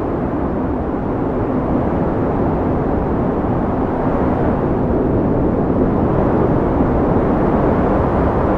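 Blizzard wind blowing hard in a steady, deep rush, swelling slightly a few seconds in.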